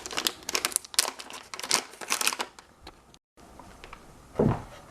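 Small plastic parts being handled: a quick run of clicks and crinkling rustles, thinning out, with a dull thump near the end.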